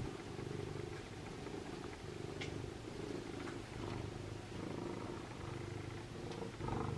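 A cat purring, a low steady rumble that swells and eases in slow cycles with its breathing. A short click comes about two and a half seconds in, and a brief louder sound near the end.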